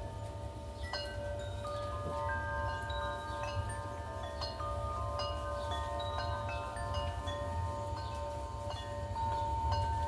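Wind chimes ringing continuously as gusty wind swings them, with many overlapping strikes of several pitched tones that ring on and blend. A steady low rumble of wind runs underneath.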